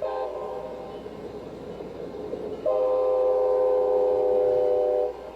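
Train horn sound effect: a short blast, then the noise of a train running, then one long steady blast of about two and a half seconds.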